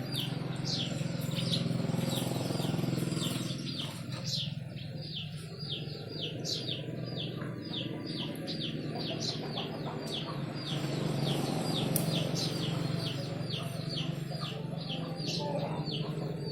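Bird chirping over and over in short falling notes, about two to three a second, over a steady low hum.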